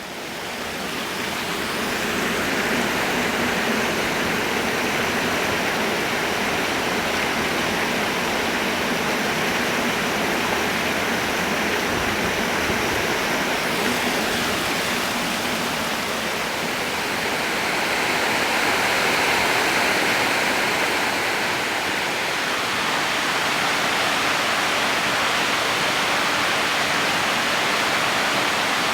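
Waterfall: the steady rush of falling water, fading in over the first couple of seconds and swelling a little about two-thirds of the way through.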